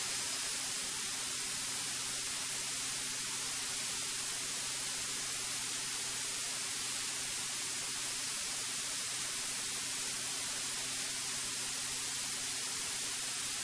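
Steady hiss from the cockpit intercom audio line, with a faint, steady engine hum beneath it.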